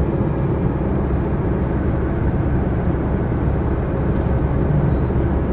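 Chevrolet S10 pickup driving at highway speed, heard from inside the cab: a steady low drone of engine and road noise. The drone is the strange noise ('ronco') that the driver reports growing with engine speed and in right-hand curves, along with some shake in the steering.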